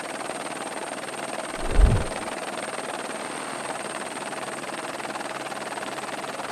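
Helicopter running steadily, with a single low thump just under two seconds in.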